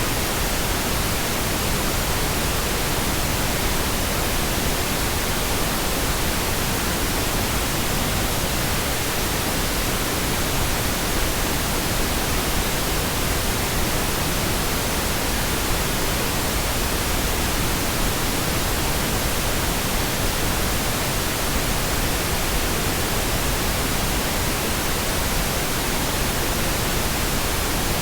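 Steady, uninterrupted pink noise: an even, unchanging hiss spread across the whole range of pitch.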